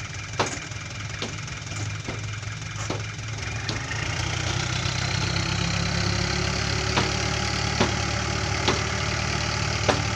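Dump truck's diesel engine running steadily, growing louder about four seconds in, with sharp short ticks roughly once a second.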